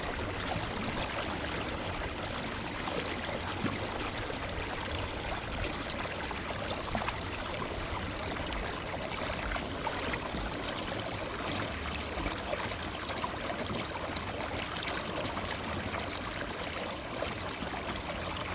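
Forest river flowing: steady rushing and babbling of water.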